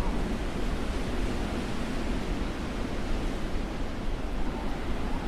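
Blizzard wind blowing in a steady, dense rush, without gusts or breaks.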